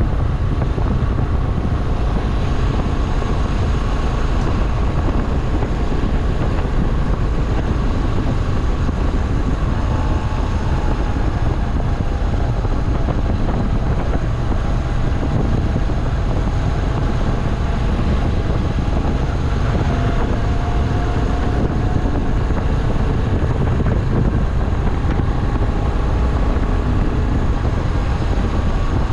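Moto Guzzi V7 Classic's air-cooled OHV V-twin running under way, its engine note drifting slightly up and down, half buried under heavy wind buffeting on the camera microphone.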